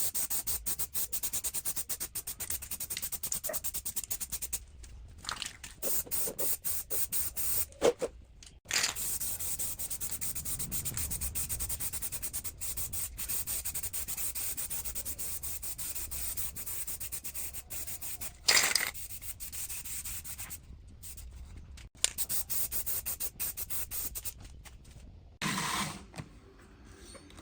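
Fast back-and-forth hand rubbing with an abrasive on a part of the cooker, stroke after stroke, broken by a few short pauses.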